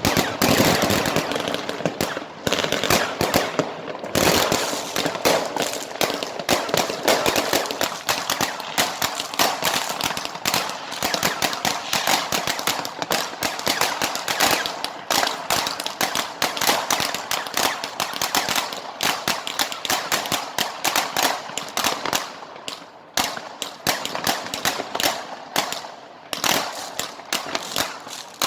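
Fireworks and firecrackers going off in a continuous, rapid crackle of bangs, many each second, thinning briefly a few times near the end.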